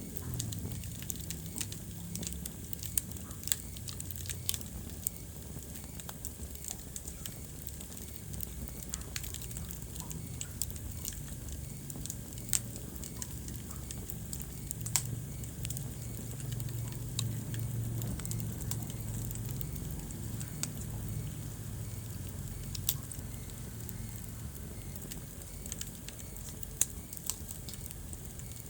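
Wood fire crackling in a fireplace: scattered sharp pops and snaps at irregular intervals over a steady low rumble of the flames.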